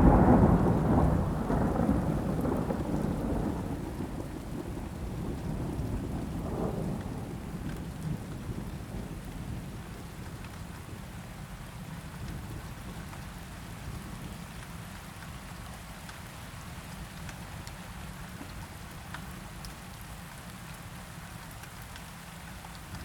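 A thunderclap rolling and fading over several seconds, with a second smaller rumble about six seconds in, over steady falling rain.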